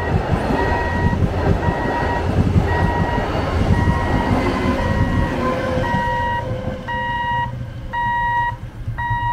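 A passenger train's coaches rumble and clatter past on the rails, fading about two-thirds of the way through as the last coach clears the crossing. Throughout, an electronic warning beeper at the level crossing sounds about once a second, standing out clearly once the train has gone.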